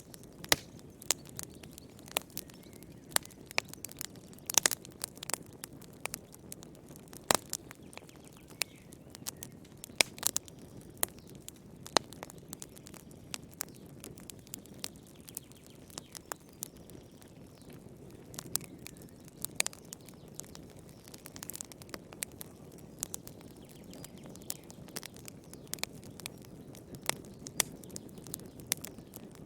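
Fireplace fire crackling: irregular sharp pops and snaps, a few louder than the rest, over a low steady rush of the flames.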